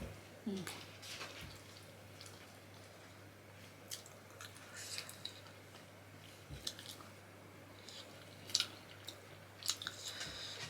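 Faint, wet mouth smacks and clicks of someone chewing soft finger-millet dhido with curry, coming in scattered bunches, over a steady low hum.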